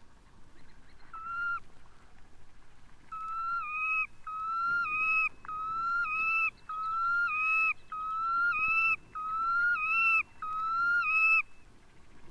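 Red knot giving a series of flute-like whistles: one short note about a second in, then seven long notes in a row, each gliding slightly upward and dropping off sharply at its end.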